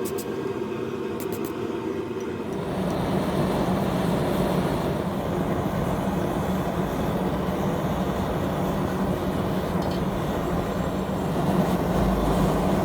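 A forge running: a steady roar with a low hum underneath that grows louder about two and a half seconds in and then holds steady, as the steel is heated toward welding temperature.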